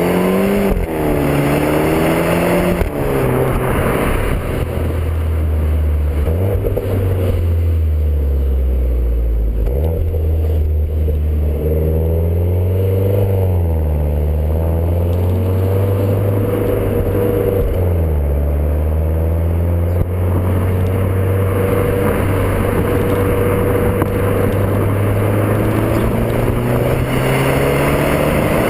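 Alfa Romeo MiTo 135 TCT's 1.4 MultiAir turbo four-cylinder on its stock exhaust, running under way. The revs rise and drop several times in the first twenty seconds, then hold steady and climb slowly near the end.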